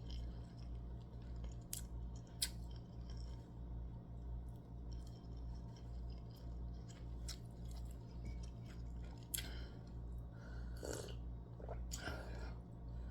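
Someone chewing, with scattered soft clicks and mouth smacks, over a steady low hum that pulses about twice a second.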